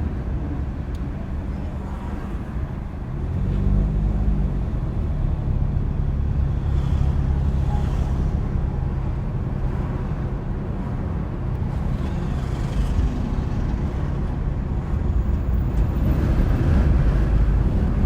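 Car driving: engine and road noise with a steady low rumble. About three seconds in the engine note grows louder, as when pulling away, then holds steady.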